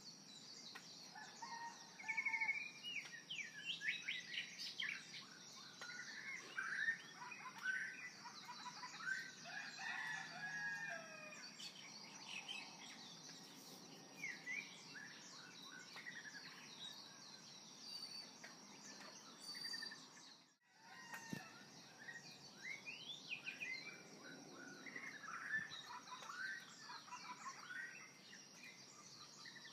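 Birds chirping and singing: many short calls that glide up and down, coming in clusters, over a steady high-pitched tone. The sound cuts out for a moment about two-thirds of the way through.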